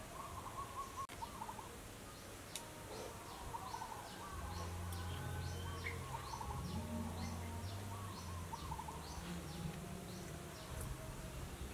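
Birds chirping: a run of short high chirps, about two a second, with some lower trilling calls. A low hum is under them from about four to eight seconds in.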